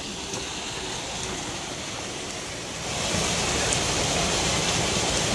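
Steady rushing noise that grows louder about three seconds in.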